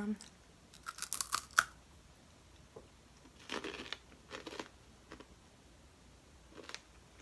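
Crunchy chewing of an edible Asian forest scorpion's brittle shell: a quick run of sharp crackles about a second in, then more bursts of crunching a couple of seconds later and a few single cracks near the end.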